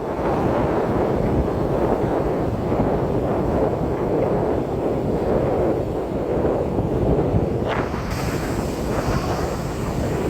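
Strong wind buffeting the microphone, over the steady wash of ocean surf.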